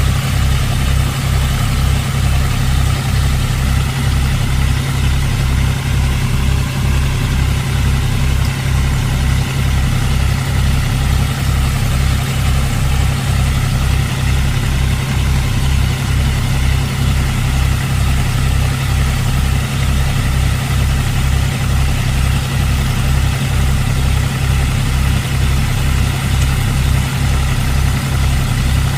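John Deere tractor's diesel engine running steadily at a low, even speed, with a regular low throb of about two pulses a second.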